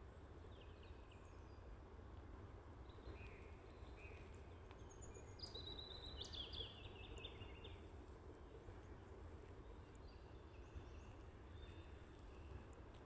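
Songbirds chirping and singing faintly, busiest about halfway through, over a steady low background rumble.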